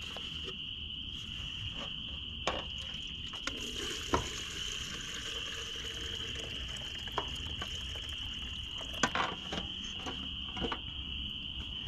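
Steady high-pitched insect trill, like crickets, with scattered light clicks and knocks.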